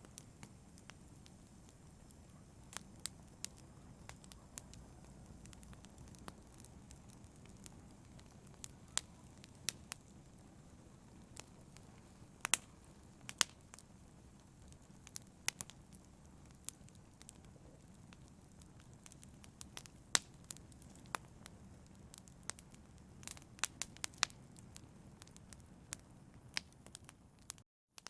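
Wood fire crackling: irregular sharp pops and snaps over a steady low hiss of burning. Near the end the sound cuts out for a fraction of a second.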